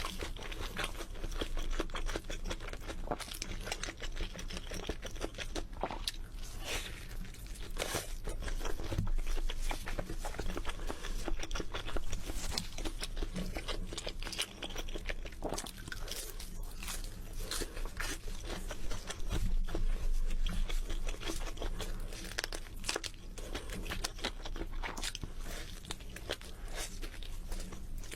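Crispy chicken being bitten and chewed, with many crunches and crackles throughout.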